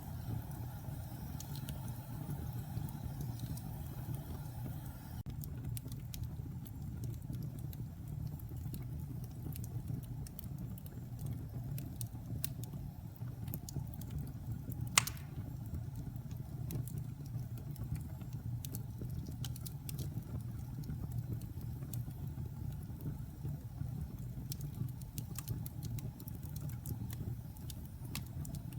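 Wood fire burning in a fireplace: a steady low rumble of the flames with scattered small crackles, and one loud, sharp pop about halfway through.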